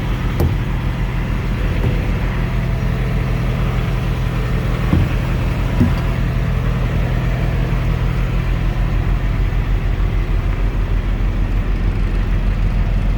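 Truck's diesel engine idling steadily, with a couple of brief knocks about five and six seconds in.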